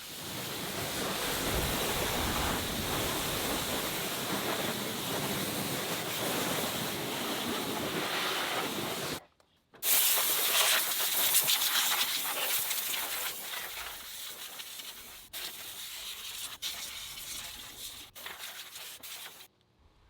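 Steady hiss of car-cleaning equipment spraying. It stops briefly about nine seconds in, then starts again louder, with some sharp ticks, and fades near the end.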